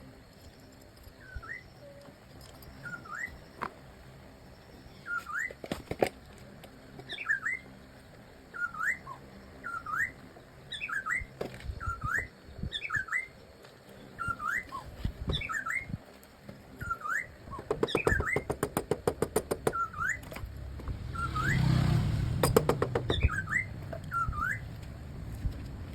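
A bird giving short, rising whistled calls over and over, about once a second. Sharp clicks sound now and then, with a rapid run of even clicks about two-thirds of the way through, followed by a louder low rumble.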